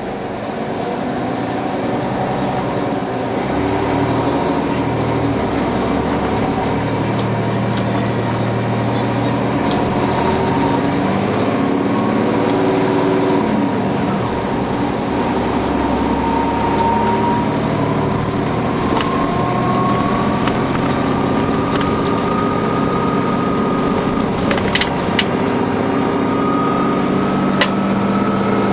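Nova Bus TL-40102A low-floor city bus under way: the diesel engine runs steadily, and a whine climbs gradually in pitch over the second half as the bus gathers speed. A few sharp clicks come near the end.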